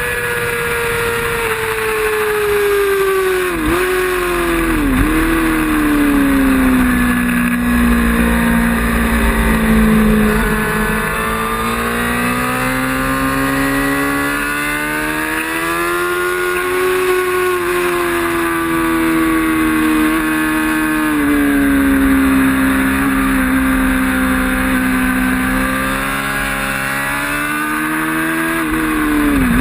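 Racing motorcycle engine running hard through a race lap, its pitch swinging with throttle and gears: two quick dips a few seconds in, then a long slow fall and a climb again, with a rush of wind beneath.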